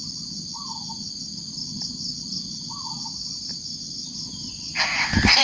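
Steady, high-pitched insect chorus with a fine pulsing texture, crossed twice by a short, lower chirp. Near the end a loud rush of noise cuts in.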